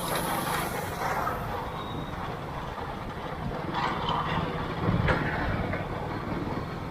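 Motorcycle engine running steadily under way, with wind and road noise, and brief louder swells about four and five seconds in.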